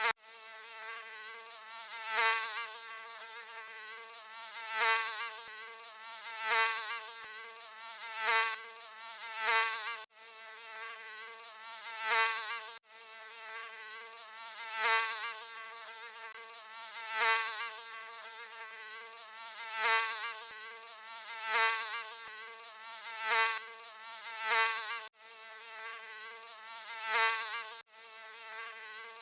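Mosquito buzzing: a thin, steady whine with a slightly wavering pitch that swells loud about every two seconds, as if flying close past the ear. Now and then it cuts off abruptly for an instant and resumes.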